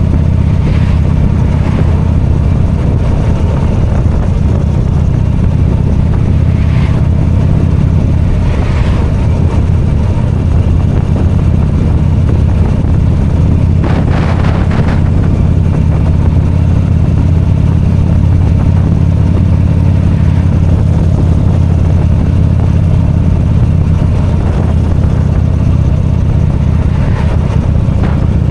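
V-twin motorcycle engine running steadily while riding, with a short rush of noise about halfway through.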